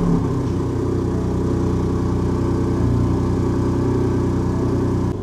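Ford car engine idling steadily just after being started, on its first run after an oil and filter change, circulating the fresh oil.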